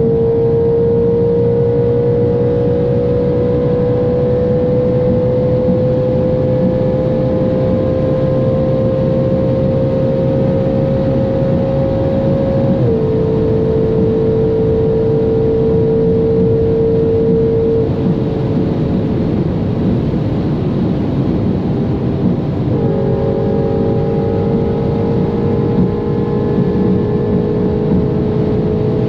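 Straight-piped Audi RS5's 4.2-litre V8 under load at high speed, its note slowly rising in a high gear. It drops in pitch at an upshift about 13 seconds in and holds steady. The engine note falls away for a few seconds as the driver lifts off, leaving road and wind noise, then comes back steady near the end.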